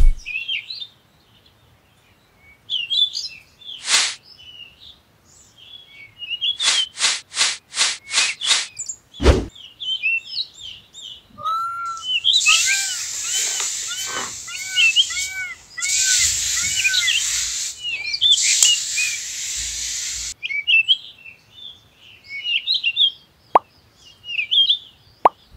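Small birds chirping throughout, with a few short pop-like clicks, including a quick run of six about a third of the way in. Around the middle, a thin stick scraping lines into sand, in three strokes of a few seconds each.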